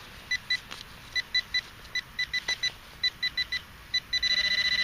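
Metal detector beeping over a buried target: short high beeps of one pitch in quick irregular groups, then a steady held tone from about four seconds in. It is a strong signal, which the detectorist calls a sweet signal that got a lot louder once the clod was flicked out.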